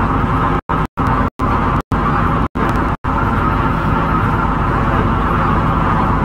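MTR C-Train electric multiple unit running, heard from on board: a steady rumble of motors and wheels on rail. The sound cuts out briefly several times in the first three seconds.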